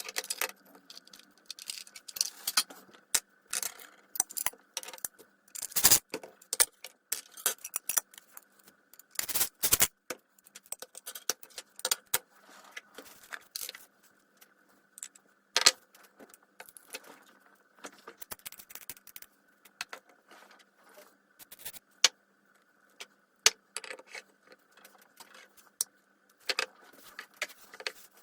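Irregular clinks, clicks and rattles of small metal parts and hand tools being handled while a circular saw is worked on, with the loudest knocks about 6 and 10 seconds in.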